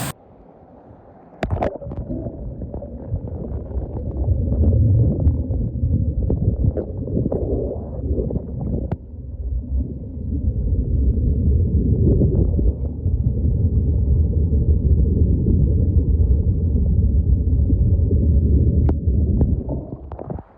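Turbulent water of a waterfall plunge pool heard underwater through a submerged camera: a heavy, muffled low rumble and gurgle with the treble cut away, and scattered knocks. About a second and a half in, a sharp knock sounds, and the sound opens up again just before the end.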